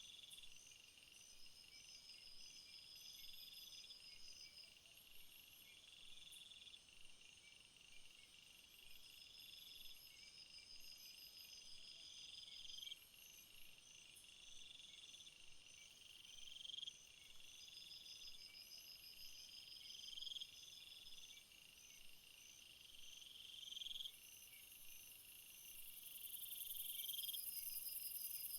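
Faint chorus of crickets and other insects, several high songs at once: a buzzing phrase that swells and breaks off about every three and a half seconds, steady pulsing trills above it, and a high hiss that grows louder near the end.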